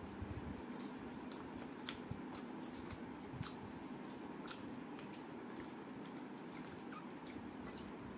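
Eating by hand: chewing a mouthful of rice and dal, with scattered wet clicks and smacks. Fingers squelch rice and dal together on a steel plate. A steady low hum runs underneath.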